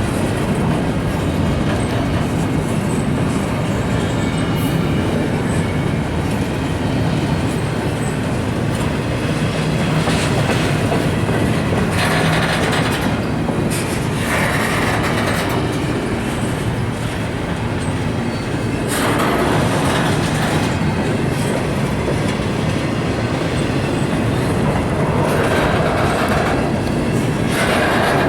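Freight train rolling past at close range, a steady rumble of cars over the rails with recurring clickety-clack and bursts of brighter wheel-and-rail noise every few seconds.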